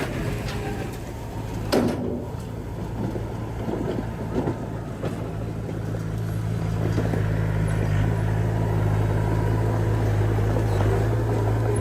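Diesel engine of heavy earthmoving machinery running with a steady low hum, growing a little louder from about halfway through, with a single sharp knock about two seconds in.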